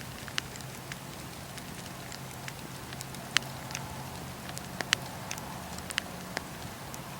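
Wood fire crackling in a fireplace: a steady hiss with irregular sharp pops, the loudest about three and a half and five seconds in.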